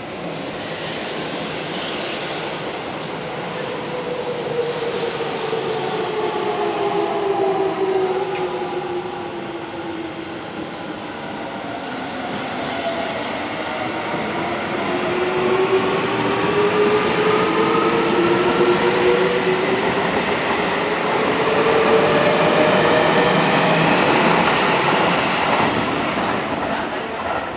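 Seibu 20000 series electric train pulling out and accelerating: its VVVF inverter motor whine glides down in pitch over the first dozen seconds, then several tones climb together as the train gathers speed, over the rumble of wheels on the rails.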